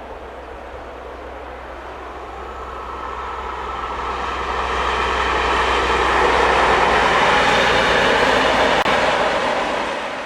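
A train approaching on the main line, its running noise building from about three seconds in to a loud, steady rush in the second half. The sound cuts off abruptly at the end.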